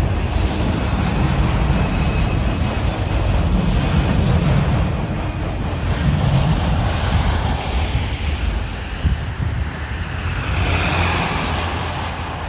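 BNSF autorack train rolling past, its cars and wheels making a steady rush of noise that is strongest in the low end, with wind buffeting the microphone.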